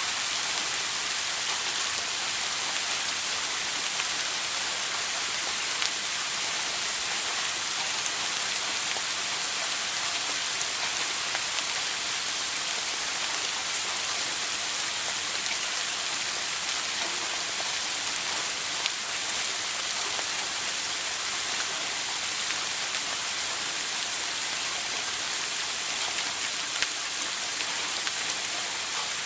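Shower running: a steady hiss of water spray falling, with a few faint drop ticks.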